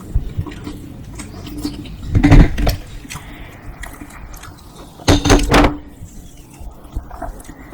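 Close-miked crunching of a crisp dosa being bitten and chewed, in two loud bursts of crackling, each under a second long and about three seconds apart.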